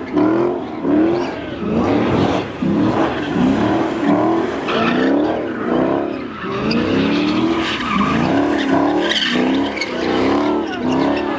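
Car engine revved hard up and down over and over, about twice a second, with tyres squealing and skidding, as in a burnout.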